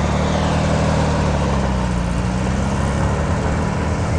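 A car engine running steadily with a low, even drone.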